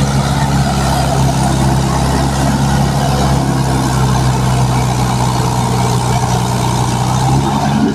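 Heavy diesel engine of a tractor or backhoe loader running steadily.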